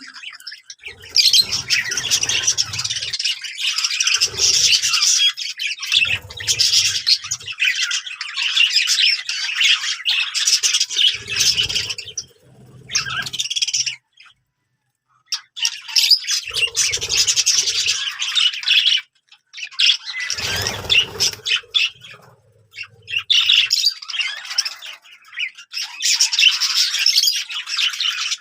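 Budgerigars chattering and warbling in a dense, fast stream of squawks and chirps, with one short pause about halfway through.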